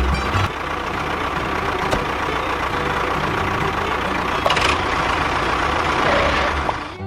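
Vehicle engine running steadily, a low rumble under a hissing noise.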